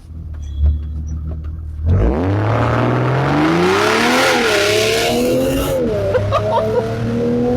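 BMW M240i's turbocharged 3.0-litre inline-six through a CSZ aftermarket exhaust, held at steady revs and then launching hard about two seconds in. The revs climb quickly, drop briefly at an upshift near the middle and again about a second and a half later, then climb again.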